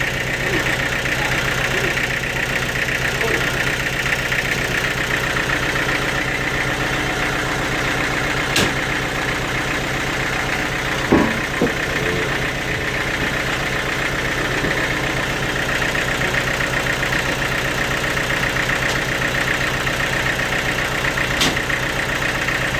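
An engine running steadily at an even pace, with a sharp click, then a short knock a few seconds later, and another click near the end.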